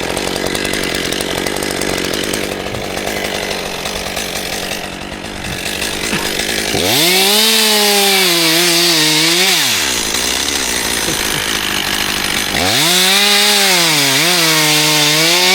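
Chainsaw running at low revs, then opened up to full throttle twice for about three seconds each; the pitch sags in the middle of each run and drops back between them.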